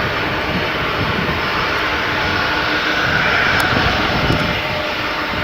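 Jet airliner engines, most likely a Boeing 747's, giving a loud steady roar with a high whine that swells about three seconds in.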